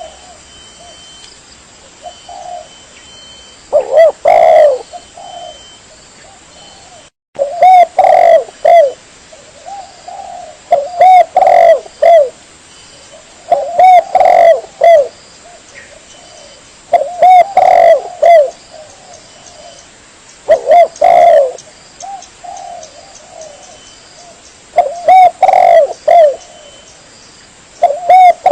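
Spotted dove (tekukur) cooing in repeated phrases of a few coos, a new phrase about every three seconds: a dove call played as a lure.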